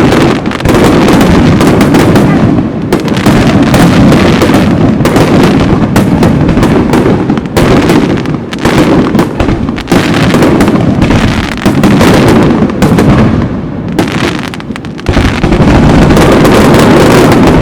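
Aerial fireworks going off in a dense, loud barrage, many bursts in quick succession, with short lulls about eight and fourteen seconds in.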